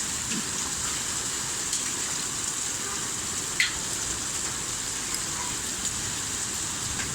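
Hail and rain falling steadily, a dense even hiss of stones and drops striking the ground and roofs, with one sharper single hit a little past halfway.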